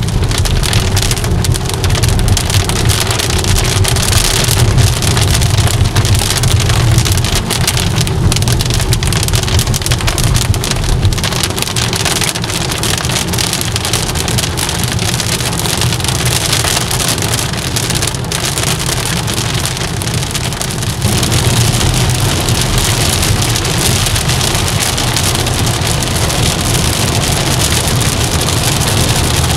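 Rain drumming on a car's roof and windshield, heard from inside the moving car over the low rumble of the car on a wet road. The rain grows heavier about two-thirds of the way through.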